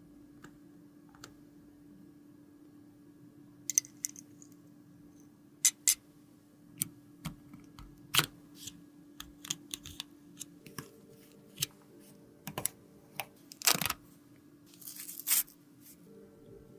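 Irregular light clicks and taps of small cosmetic cases and tools being handled, with a short scraping rustle near the end, over a faint steady hum.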